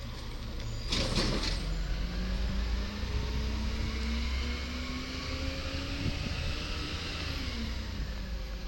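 Garbage truck engine revving, its pitch climbing slowly for several seconds and then easing back down, with a short burst of air hiss about a second in.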